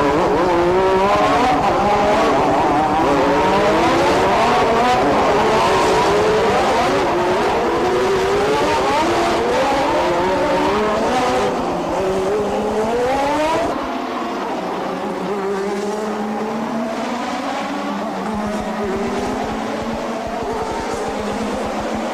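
A pack of 1988 Formula One cars accelerating through the gears, many engine notes overlapping and rising in pitch again and again. After about 14 s the sound drops in level and thins out to fewer, steadier engines.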